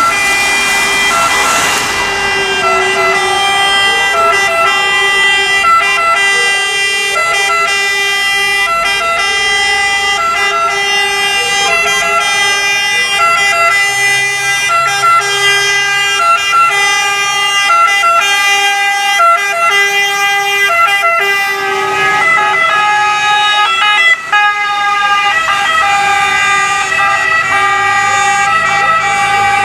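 Sirens of an Italian fire-brigade Scania P370 water tender and a Volkswagen LT sounding together: two-tone sirens switching back and forth between a high and a low note, overlapping.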